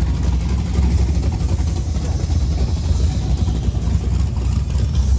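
Car engine idling, a steady deep running sound.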